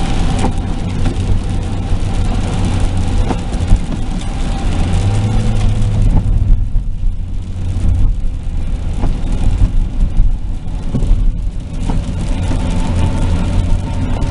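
Car driving, heard from inside the cabin: a steady low engine and road rumble with tyre hiss. The hiss dies down for a few seconds in the middle.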